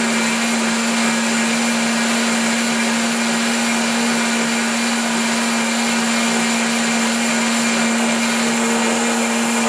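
A 3 hp OMNI blender running steadily at high speed, blending avocado, tomato, garlic and sauerkraut juice into a thick dressing. Its motor holds one steady hum under a dense whirring rush.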